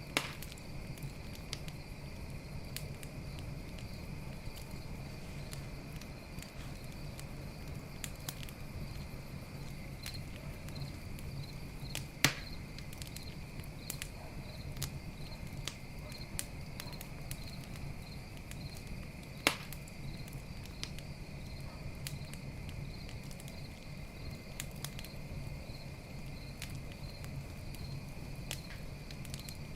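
Wood campfire crackling with scattered small snaps and three loud pops, one near the start, one about twelve seconds in and one about twenty seconds in, over a steady pulsing trill of crickets.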